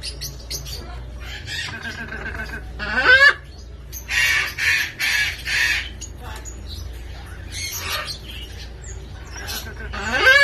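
Parrots calling and squawking: a rising whistled call about three seconds in, then three loud harsh screeches in quick succession, another screech a little later, and a second rising call near the end, over a steady low hum.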